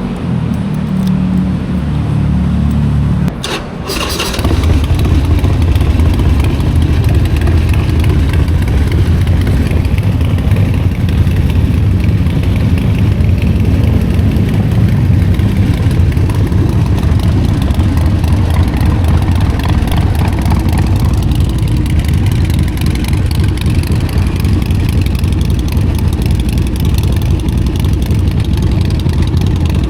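Harley-Davidson 1200 Nightster's air-cooled Evolution V-twin running through a Vance & Hines exhaust. About three to four seconds in the note dips briefly with a couple of clicks, then the engine runs on steadily with a lower, deeper note.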